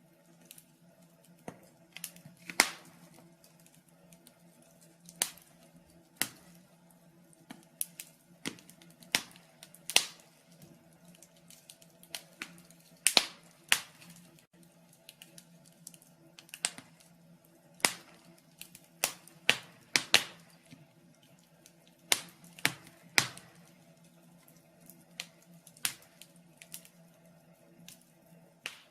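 Wood fire in a fireplace crackling: sharp snaps and pops at irregular intervals, some much louder than others.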